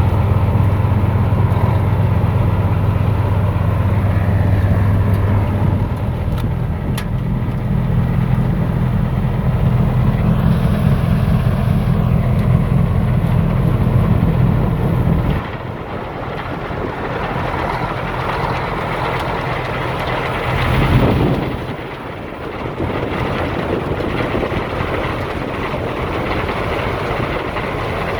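Larue T60 self-propelled snow blower working: a loud, steady low engine drone over the rush of the blower head casting snow. About halfway through, the engine drone drops away abruptly, leaving a noisier rushing sound that swells briefly about three quarters of the way through.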